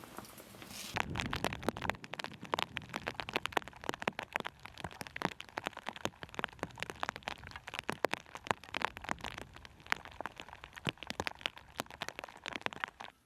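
Dense, irregular crackling: many sharp ticks and pops in quick succession, starting suddenly about a second in and cutting off just before the end.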